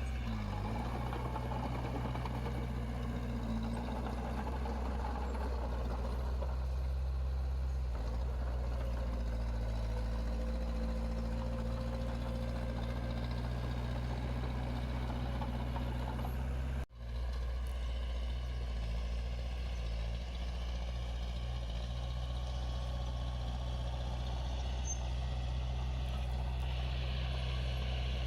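Diesel engine of heavy earthmoving machinery running steadily with a low hum. The sound drops out for an instant about seventeen seconds in, then carries on.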